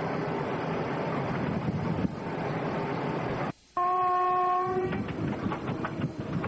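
Train running with a steady rumble and rattle on the rails; after a brief dropout about halfway, the train horn sounds one steady note for about a second, then the running noise returns with a clickety-clack of wheels over rail joints.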